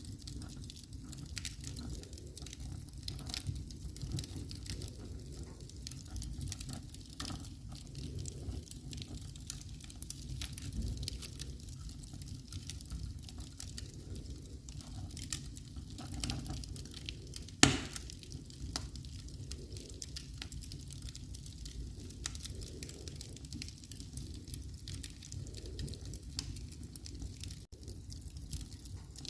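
Wood fire in a fireplace crackling, with frequent small pops over a low steady rumble and one loud, sharp pop about two-thirds of the way through.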